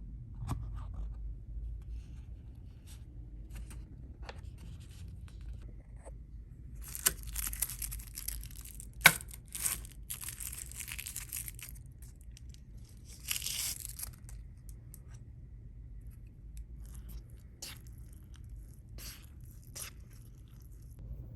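Packaging being torn open and handled, with scattered clicks and knocks over a steady low room hum.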